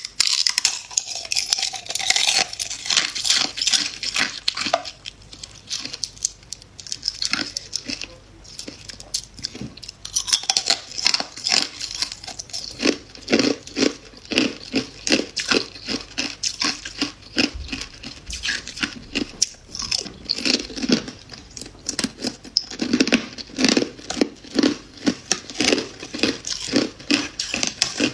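Close-up chewing and crunching of freezer frost: a dense run of quick crisp crunches, several a second, with short pauses.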